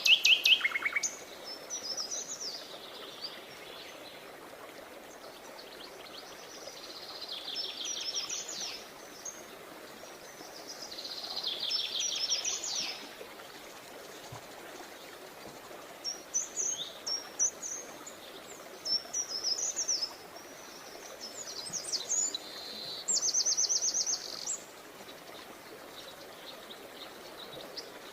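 Songbirds singing: short phrases of rapid chirps and trills, a new phrase every few seconds, over a steady background hiss.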